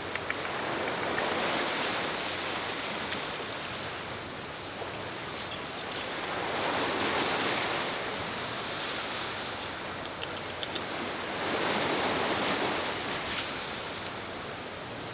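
Sea waves breaking and washing up the shore, the surf swelling about every five seconds, with wind blowing. A single sharp click comes near the end.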